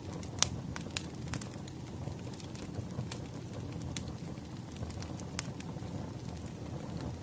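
Wood fire crackling: a steady low rumble of burning logs with scattered sharp pops, the loudest about half a second in.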